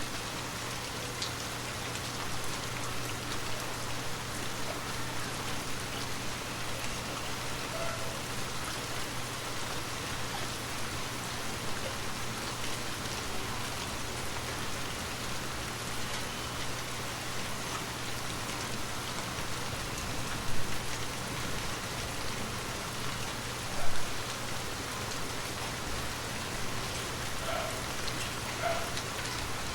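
Gentle rain falling steadily, an even patter of drops, with two brief louder sounds about twenty and twenty-four seconds in.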